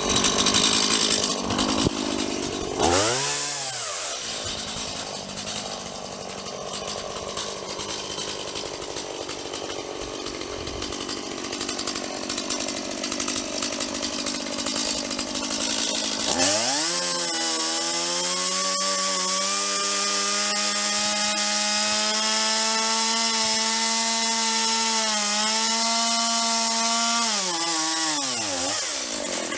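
Chainsaw cutting tree branches: a quick rev about three seconds in, a stretch of rougher running, then held at a steady high pitch for about ten seconds before winding down near the end.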